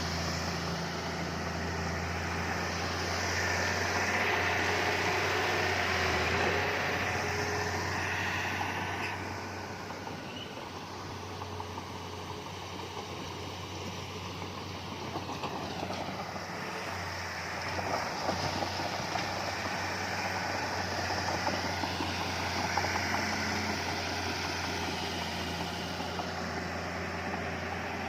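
Diesel engine of heavy earthmoving machinery running steadily. It grows louder for a few seconds near the start and again near the end, with a few faint clicks and knocks.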